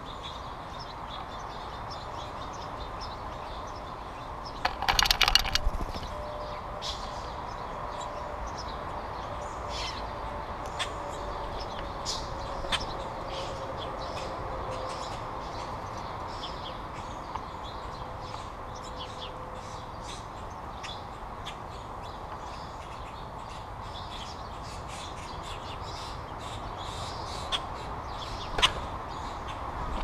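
A bird gives one harsh, cawing call about five seconds in. Scattered light ticks and taps come from the nut-covered feeder tray, over a steady outdoor background hiss.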